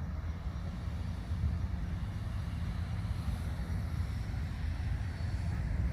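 Steady low rumble with a faint hiss above it, even throughout.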